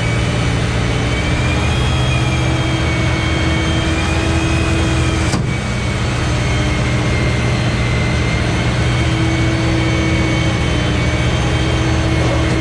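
Vehicle engine running steadily under load, with a thin high whine that drifts slowly up and down over the low hum, as from a Sherp 10x10 on the move. There is a brief break about five seconds in.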